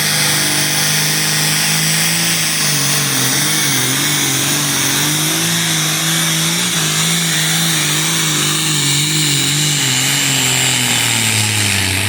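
Modified farm tractor engine running at full power under heavy load while pulling a weight-transfer sled. The engine pitch wavers up and down as the revs hunt, then sags near the end as the pull slows.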